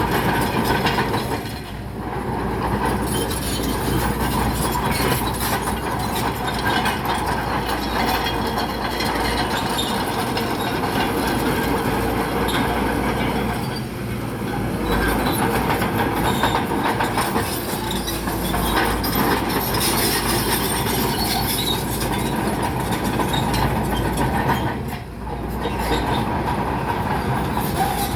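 Crawler bulldozer at work: its diesel engine running under load while the steel tracks clank and rattle over rock. The sound briefly eases three times before picking up again.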